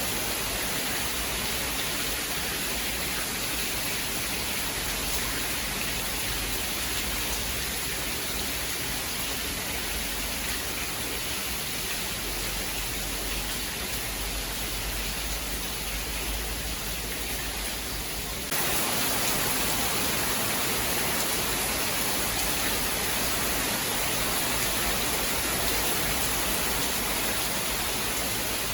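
Steady heavy rain, an even hiss with no thunder. About two-thirds of the way through it cuts abruptly to a slightly louder, brighter stretch of rain.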